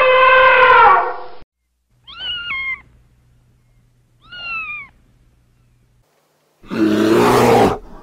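A long, drawn-out animal call with a falling tail ends about a second in. A cat then meows twice, and near the end comes a loud, rough growl lasting about a second.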